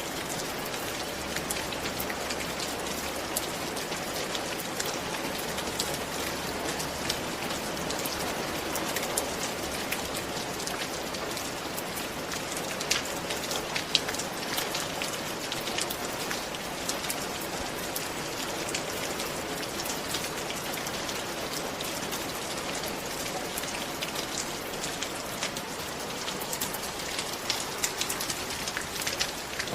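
Steady rain falling, an even hiss with many individual drops pattering close by.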